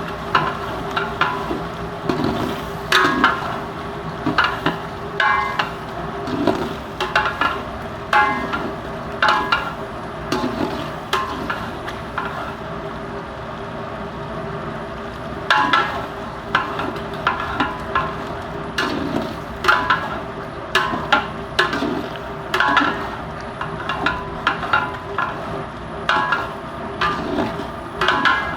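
A cooking spoon scraping and knocking against a pot as chicken gizzards are stir-fried in oil, in irregular strokes about one a second, with a pause of a few seconds midway. The masala is at the bhuna stage, with the oil separating and rising to the top.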